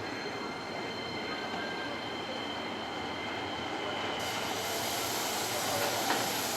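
Keisei electric train in the station, its wheels squealing with steady high ringing tones over a rumble that grows slowly louder. A high hiss sets in suddenly about four seconds in.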